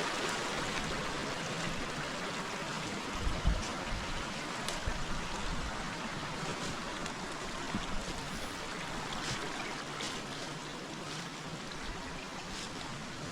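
River water flowing steadily over its bed, a continuous rushing and trickling. A low thump comes about three and a half seconds in, and a few faint short clicks follow later.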